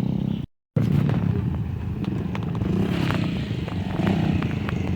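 Dirt bike engines running, their pitch rising and falling as the bikes pass, with scattered clicks and clatter. The sound cuts out completely for a moment about half a second in.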